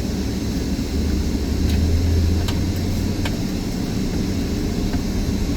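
Steady low rumble of a car driving, heard from inside the cabin. A deeper drone swells for a couple of seconds in the middle, with a few faint ticks.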